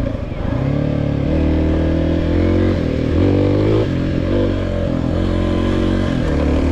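Kawasaki KLX300's single-cylinder four-stroke engine running on the trail, its engine speed rising and falling several times.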